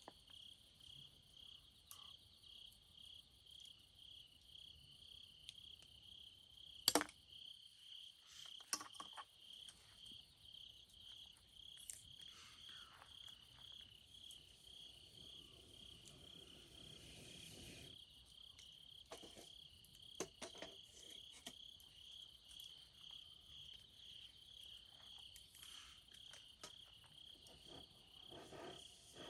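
A cricket chirping in a steady, even rhythm of about two high chirps a second. A sharp snap comes about seven seconds in, with a few fainter scattered clicks and crackles.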